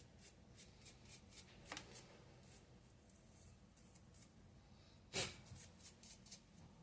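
Faint clicks and light rustling of small parts of a disassembled electric nail drill handpiece being handled, with one sharper click about five seconds in.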